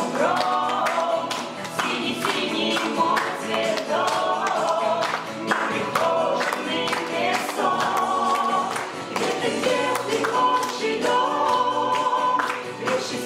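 A group of voices singing a song together in several parts, with music accompanying them.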